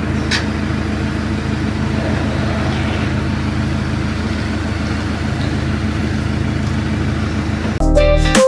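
Diesel engine of a heavy demolition machine running steadily with an even low hum, with a short high tick just after the start.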